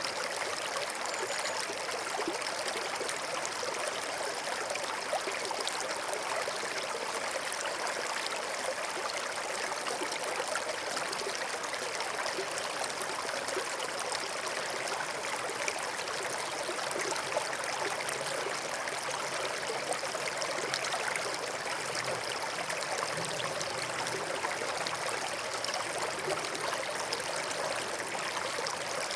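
Forest stream flowing and trickling over stones, a steady, even babble of running water.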